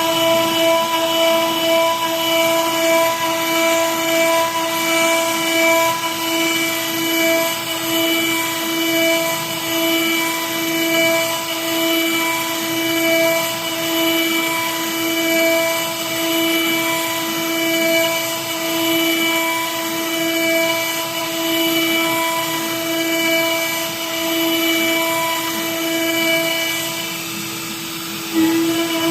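Electric wood router milling cherry wood: a steady high-pitched motor whine whose loudness swells and eases every second or two. The whine dips briefly near the end, then picks up again.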